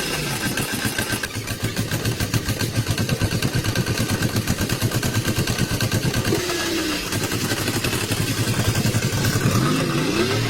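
Restored old truck's engine running with a rapid, even firing pulse and a strong low hum, with brief rises and falls in pitch near the end.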